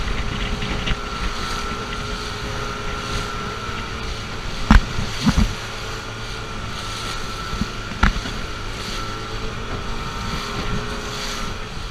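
Motorboat engine running steadily, with wind buffeting the microphone. A few sharp knocks break in about halfway through and again a few seconds later.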